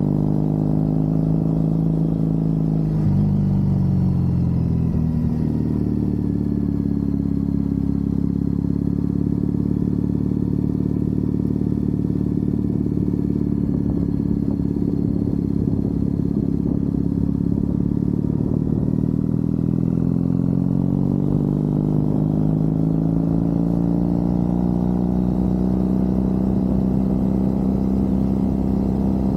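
Triumph Bonneville parallel-twin engine running under load as the motorcycle rides along. Its pitch drops sharply about three seconds in, as in a gear change, holds steady, then climbs gradually in the last third as the bike picks up revs.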